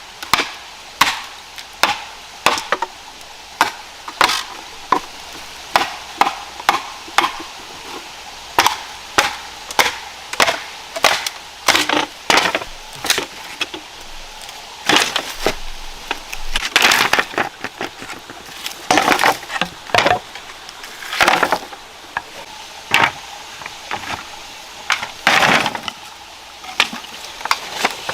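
Wood being chopped with a bladed tool: sharp strikes into wood, roughly one and a half a second, steady and regular. In the second half a few longer, rasping stretches of splitting or splintering wood come between the blows.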